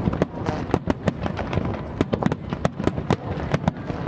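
Fireworks display: a rapid, irregular string of sharp cracks and pops, several a second, over a continuous low rumble of bursting shells.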